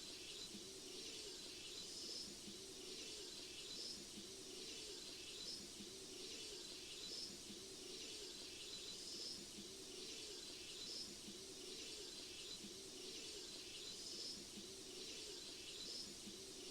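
Faint bird calls from a sogok ontong song recording: short high chirps repeating about every couple of seconds over a steady hiss.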